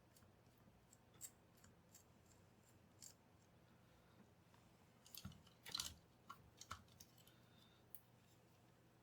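Small clicks and light scrapes of hand work on a Bluetooth speaker under repair, over a faint steady hum, with a cluster of sharper clicks about five to seven seconds in.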